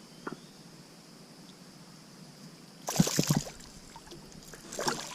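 Water splashing at a kayak in a short burst about three seconds in, with a smaller splash near the end, over quiet river ambience with a faint steady high hum.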